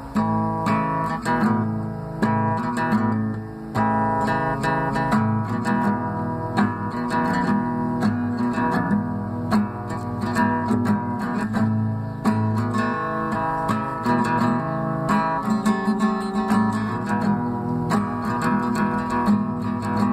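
Acoustic guitar being strummed: the instrumental intro of a song.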